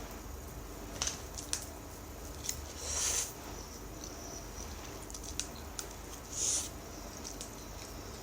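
Eating sounds: noodles being slurped twice in short hissy pulls, about three seconds in and again near the end, with a few light clicks and smacks between.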